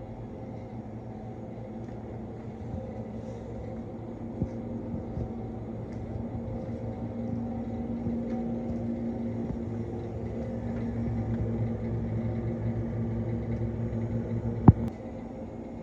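Semi-truck running, a steady low engine drone with road rumble that grows somewhat louder in the middle, and one sharp click about a second before the end.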